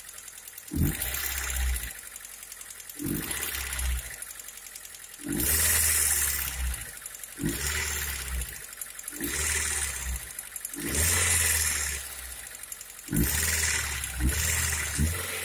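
Hyundai engine running rough, with a surge of noise about every two seconds, each beginning with a sharp knock: a misfire caused by a leaking ignition coil.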